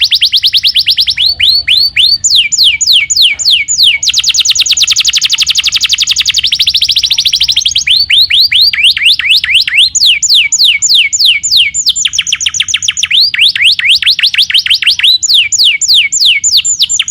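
Canary singing a loud, unbroken song. Fast rolling trills of rapidly repeated notes alternate every second or two with runs of quick downward-sliding whistles.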